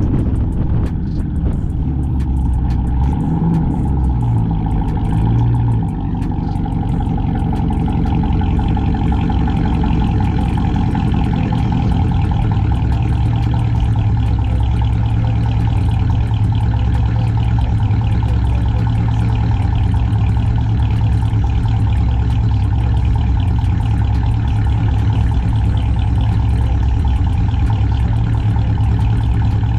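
Cammed, catless, straight-piped Chrysler 300C Hemi V8 exhaust running while driving; the revs shift a few seconds in, then the engine holds a steady low drone.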